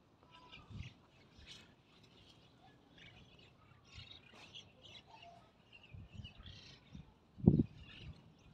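Small birds chirping faintly, with scattered short calls. A single low thump near the end, the loudest sound, as of something bumping the microphone.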